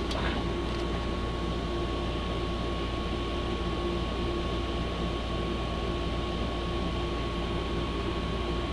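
Steady machine-like drone with a constant thin whine above it, unchanging throughout.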